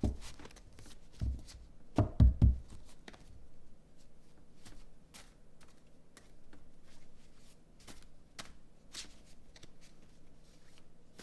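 Tarot cards being handled and shuffled by hand: a few heavy low thumps in the first two and a half seconds, then a run of light, quick card clicks and flicks.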